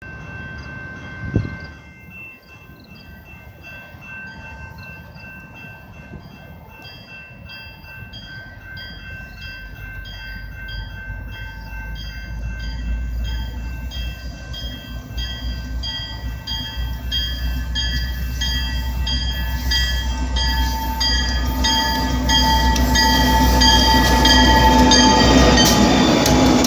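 A freight train led by two EMD SD40-2 diesel locomotives (16-cylinder two-stroke engines) approaching, its rumble growing steadily louder. A regular ringing sounds about once a second throughout, and there is a single thump early on.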